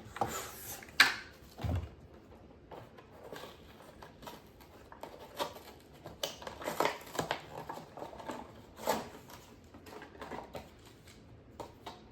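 Toy packaging being handled: irregular plastic clicks, crackles and small knocks, the sharpest one about a second in.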